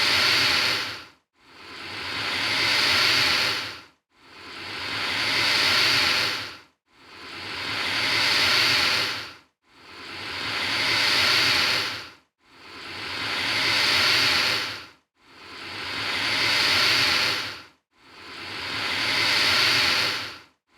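Alligator hissing, the same hiss repeated evenly about every three seconds; each one swells up and then cuts off sharply.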